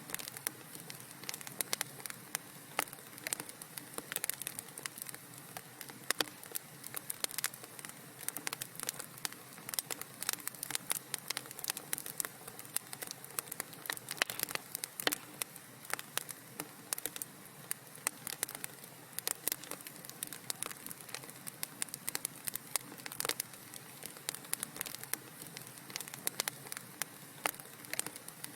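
Wood fire in a fireplace crackling, with many small irregular pops and snaps over a soft steady hiss.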